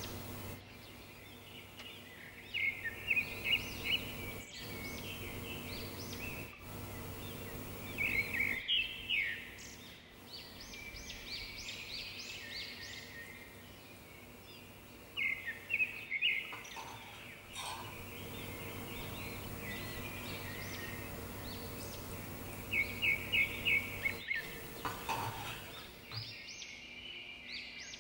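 A bird singing in four louder bursts of rapid high chirps, with softer chirping between them, over a steady low hum.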